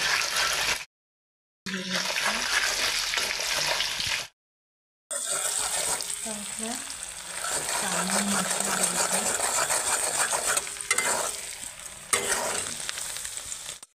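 Food frying in hot oil in a wok: a steady sizzle while a spatula stirs it, with a few sharp clicks of the spatula near the end. The sound cuts out completely twice for under a second.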